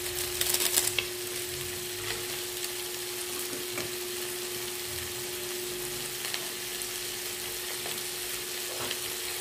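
Milkfish pieces sizzling steadily as they fry in a pan on a gas stove, with a brief louder crackle in the first second as powdered seasoning is sprinkled onto them.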